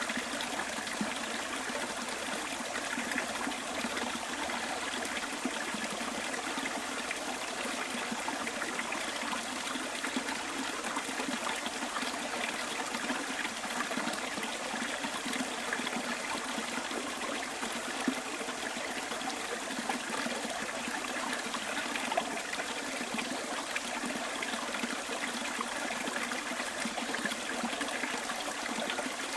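A small bush stream flowing, with a steady trickling babble of water.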